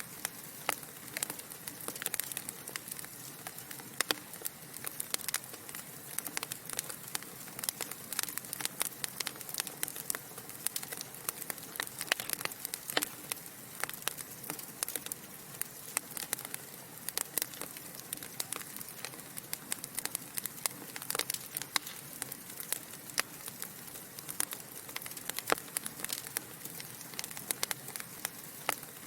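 Wood fire crackling in a fireplace: irregular sharp pops and snaps over a steady soft hiss of burning logs.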